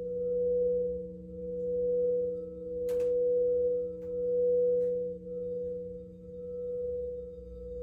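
Alchemical crystal singing bowls sounding a sustained, steady tone over lower hums, the sound swelling and fading about once a second. A short click comes about three seconds in.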